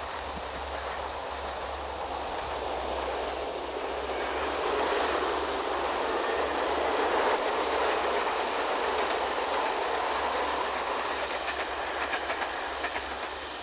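Train running along the line, a steady rush that grows louder through the middle and eases off, with a run of wheel clicks near the end.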